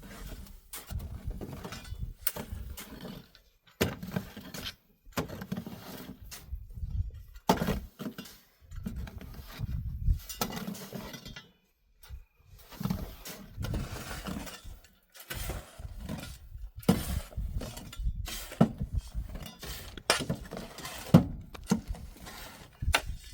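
Irregular clinking and knocking of hard objects, many sharp strikes in quick, uneven succession.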